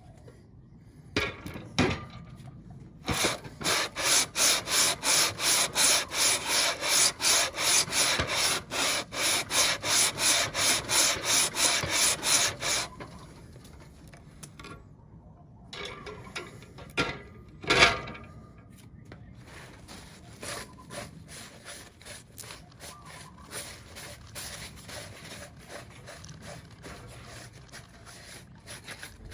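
Aluminium Subaru cylinder head being rubbed back and forth by hand on 120-grit sandpaper over a flat tile: a loud, rhythmic scraping of about three strokes a second that stops about 13 s in. A few sharp knocks follow, then fainter strokes resume.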